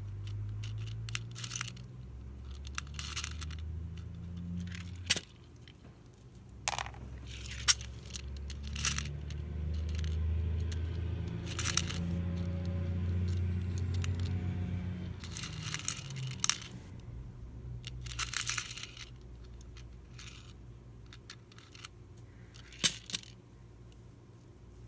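Beads clicking and clinking as they are picked up and threaded onto binding thread: scattered, irregular small clicks over a low steady hum.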